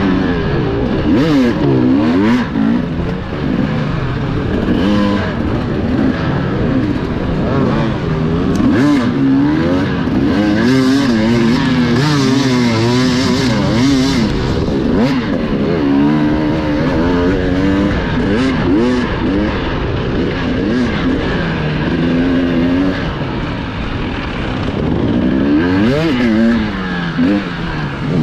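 Enduro motorcycle engines revving up and dropping back again and again as the bikes are ridden hard over rough ground.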